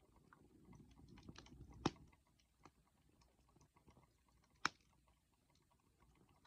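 Wood bonfire crackling quietly with scattered small clicks and a soft low rush of flame in the first two seconds, and two sharp pops of burning wood, about two seconds in and again nearly three seconds later.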